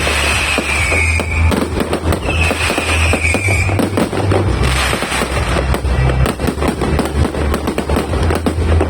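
Multi-shot fireworks cake firing in rapid succession, a dense run of bangs and crackles. Two whistles, each about a second long and falling slightly in pitch, come in the first half. Music with a steady deep bass plays underneath.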